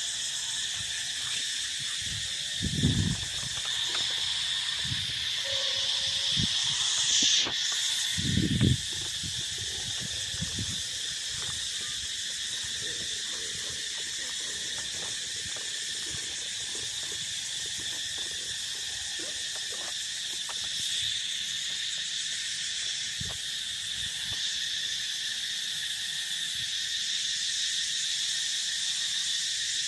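A steady chorus of field insects, a continuous high-pitched chirring that holds without pause. A few low thumps break in about three seconds in and again around eight to nine seconds in.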